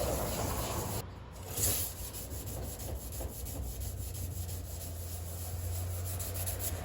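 Hand sanding with 400-grit sandpaper on the truck's sheet-metal roof, knocking down the edges of putty and clear-coat overspray: a steady scratchy rubbing.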